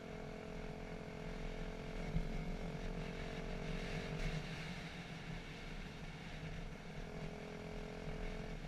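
Dirt bike engine running at a steady throttle, its note changing a little about four seconds in.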